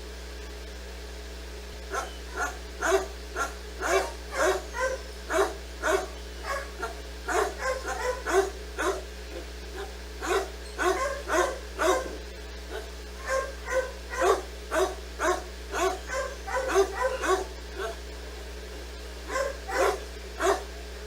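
A dog barking over and over, about two barks a second, starting about two seconds in and stopping shortly before the end, over a steady low hum.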